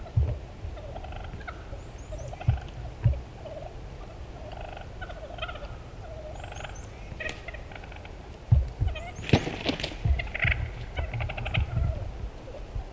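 Wild turkey gobbler gobbling: a loud rapid rattling gobble about nine seconds in, and another rattling call soon after, among scattered small bird chirps and a few low thumps.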